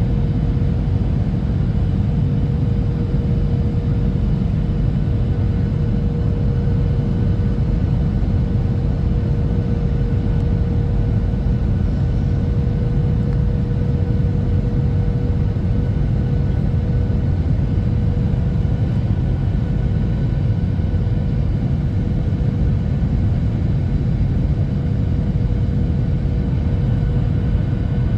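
Steady cabin noise inside a Boeing 737-800 with CFM56-7B engines: a deep engine and airflow rumble with a steady hum over it, unchanging.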